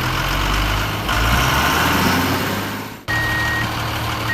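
Heavy diesel engine of earth-moving machinery running, louder from about a second in and fading off near three seconds. After an abrupt break, a reversing alarm beeps once over the engine near the end.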